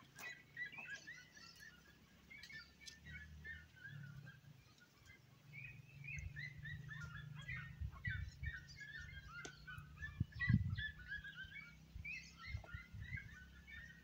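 Small birds chirping, many short high notes overlapping. Underneath is a steady low rumble, and there is one low thump about ten seconds in.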